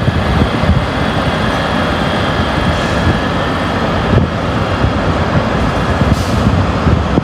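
A train moving through the station platform: a loud, steady rumble with a faint steady whine above it.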